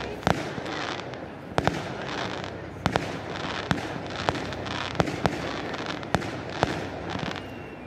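Fireworks display: shells bursting in the sky as about a dozen sharp bangs at irregular intervals, some in quick pairs, over a steady background noise.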